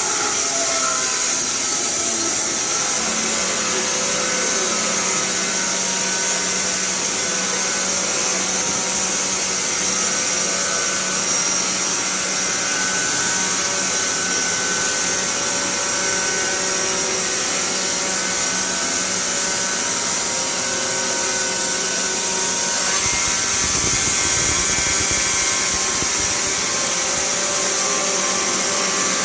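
Carpathian SMSA 110 semi-automatic band sawmill running, a steady mechanical whine with a hiss over it. About three-quarters of the way through, a deeper rumble joins in.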